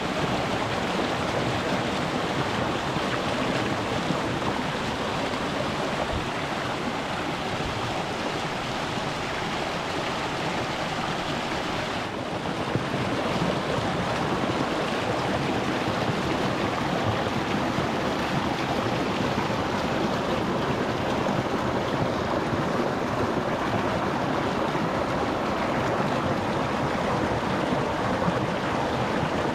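Shallow rocky stream rushing and splashing over stones in a steady, dense wash of water noise; about twelve seconds in it dips briefly, then carries on slightly louder.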